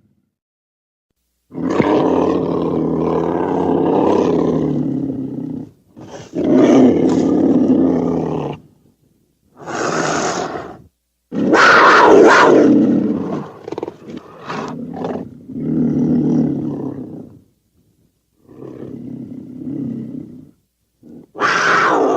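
A run of about eight separate roars and growls, custom sound effects for a cartoon hamster. Each lasts one to four seconds and is cut off by a short dead silence; some end in a falling pitch.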